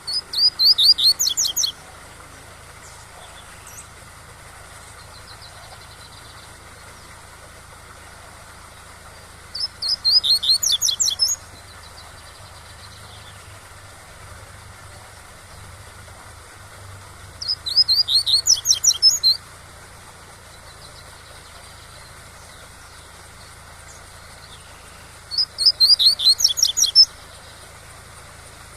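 A double-collared seedeater (coleiro) sings the tui-tui song four times, each a quick run of high notes lasting about two seconds and coming about every eight seconds. A steady rush of waterfall runs beneath it.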